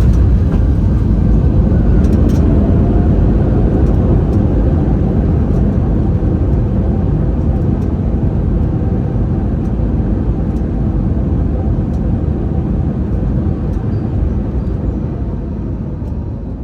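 Loud low rumble of an Airbus A320neo slowing on the runway after touchdown, heard inside the cabin. The rumble gradually dies away as the aircraft decelerates.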